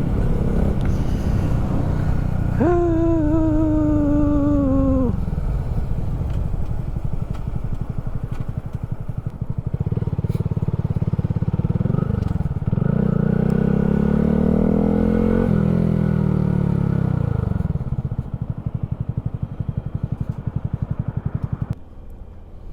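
Vehicle engine running with a steady low pulsing beat, its pitch rising and falling as it is driven, then switched off abruptly near the end.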